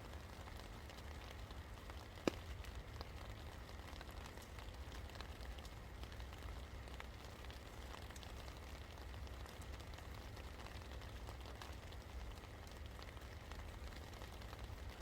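Steady rain falling, with many small drops ticking on a surface and one sharper, louder tick about two seconds in.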